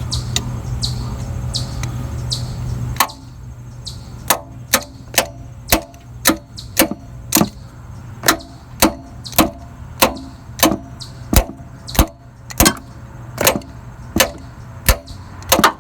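Metal socket extensions tapping on the starter solenoid of a 1999 Jeep Cherokee, a series of sharp metallic taps about two a second that begins about three seconds in, after a steady hum. The tapping is meant to free a sticking starter, whose weak, slow cranking marks it as going bad.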